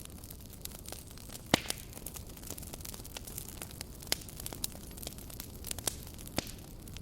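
Campfire crackling: irregular sharp pops and snaps of burning wood over a steady low hiss, the loudest snap about a second and a half in.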